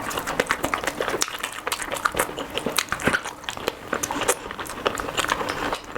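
Close-miked eating sounds: a person chewing food with many quick, irregular wet mouth clicks.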